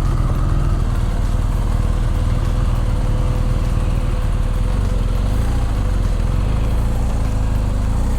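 Motorcycle engine running steadily, with a faint thin steady tone above it.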